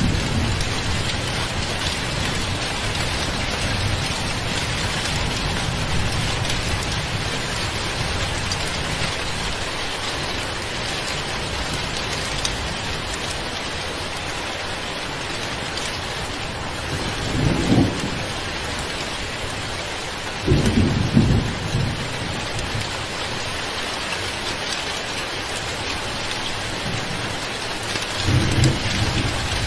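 Summer rain falling steadily. Three short low rumbles break through it: about halfway through, a few seconds later, and near the end.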